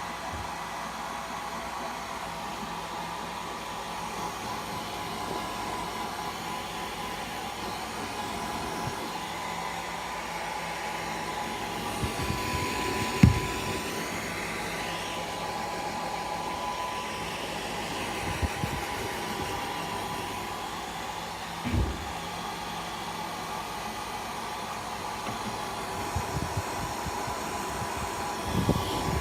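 Hair dryer running steadily, a rush of air with a faint steady whine. A few dull thumps break in, the loudest about thirteen seconds in.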